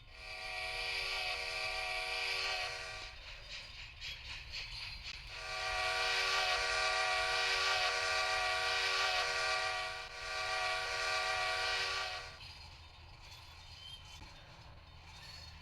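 Train horn sounding a multi-note chord in three blasts: a long one, a longer one, then a shorter one.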